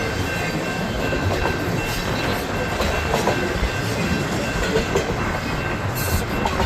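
Union Pacific intermodal freight train rolling past, its wheels clattering steadily over the rails, with gusty wind rumbling on the microphone.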